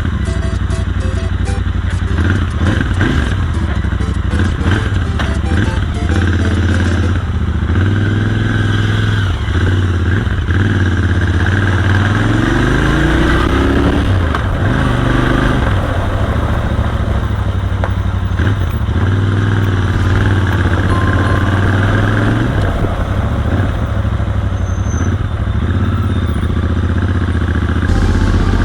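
Royal Enfield Continental GT 650's parallel-twin engine running under way on the road, with wind and road noise. The engine pitch rises and falls with the throttle around the middle of the stretch.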